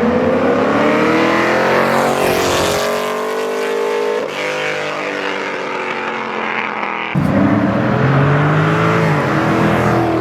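Car engines being revved hard as cars accelerate away, the engine note climbing in pitch over the first few seconds. About seven seconds in the sound switches abruptly to another loud engine running at high revs.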